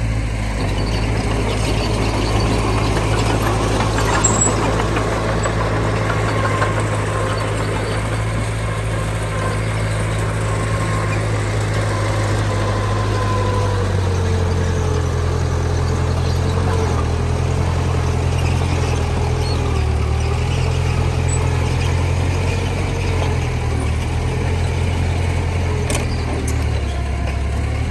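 Diesel engine of heavy earthmoving machinery running steadily, its pitch shifting a few times, with a faint wavering whine above it.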